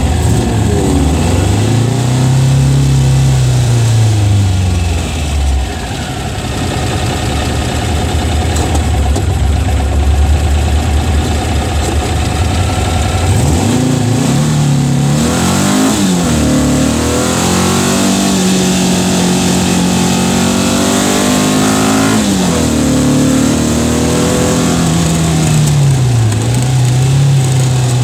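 Car engine accelerating hard from a standing start and up through the gears: the revs climb, drop back at each gear change, then climb again. There is wind and road noise over it, as heard from an open car.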